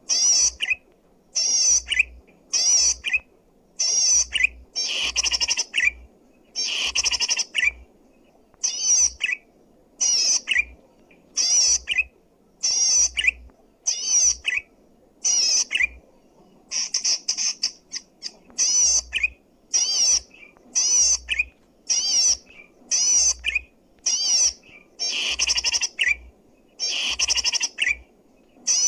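Zitting cisticola (cici padi) singing loudly: a long series of short, sharp, high chirping bursts, repeated about once a second.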